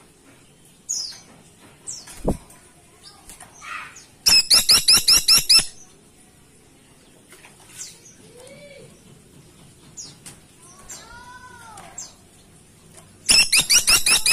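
A caladi tikotok woodpecker giving a rapid series of about ten sharp, ringing call notes about four seconds in, then starting another such series near the end. Faint, scattered chirps come in between.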